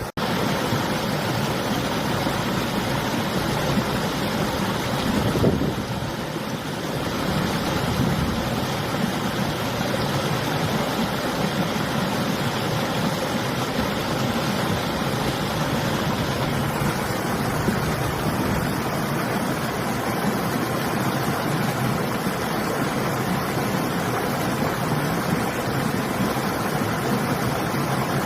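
River water rushing steadily, mixed with winter wind blowing across the microphone; the noise eases briefly about six seconds in.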